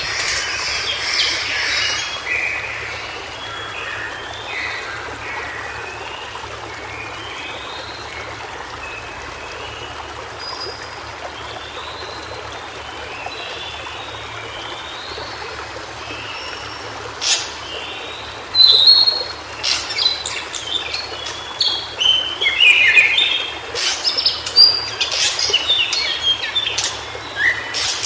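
White-browed shortwing singing short, varied phrases over a steady background hiss, with other birds chirping. The singing is sparse through the middle and gets busier in the last third, with several sharp clicks.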